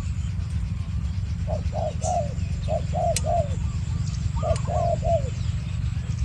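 Spotted doves cooing back and forth in short rhythmic phrases of several coos. A second, higher-pitched dove answers partway through, and a steady low rumble runs underneath.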